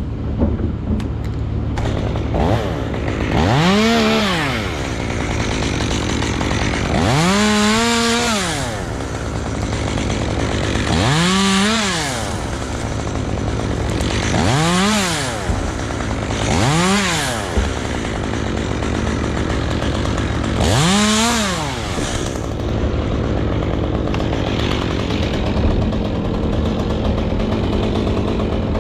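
Chainsaw revving up six times, each time climbing in pitch, holding briefly and dropping back to idle, as in short cuts. A steady low engine hum runs underneath.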